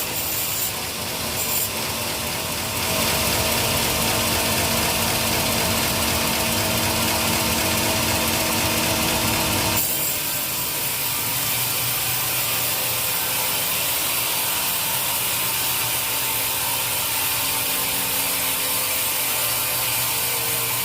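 Sawmill saw running and cutting through teak wood: a steady mechanical noise with a hum underneath. About halfway through the sound changes suddenly as the hum and upper hiss drop away, leaving the machine running more quietly.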